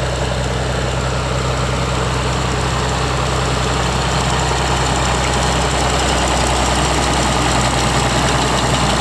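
Farmall 560 tractor's engine running steadily while it pulls a working hay baler that is picking up hay.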